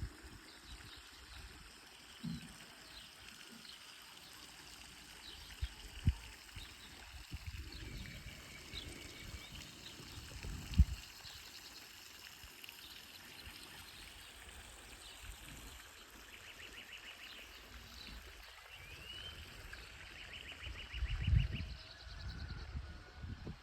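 Birds chirping, with several short buzzy trills, over a steady hiss, broken by a few low thumps.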